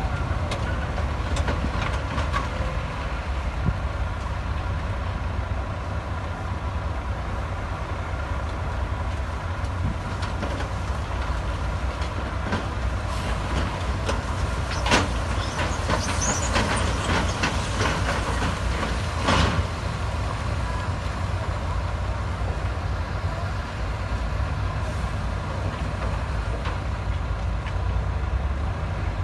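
Heavy earthmoving machine's diesel engine running steadily under a low rumble, with a few sharp metallic clanks, the loudest about halfway through and again a few seconds later.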